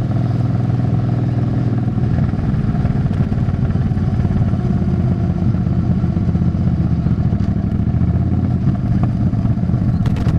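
Suzuki Intruder 800 V-twin cruiser's engine and exhaust running steadily under way, picked up close to the exhaust pipe, with a couple of short clicks near the end.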